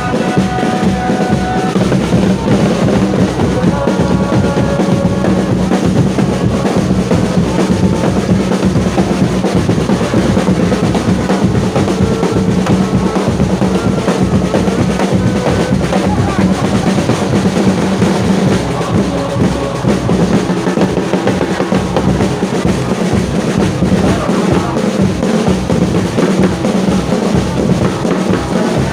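Football supporters in the stands beating drums in a fast, steady rhythm, with the crowd chanting along.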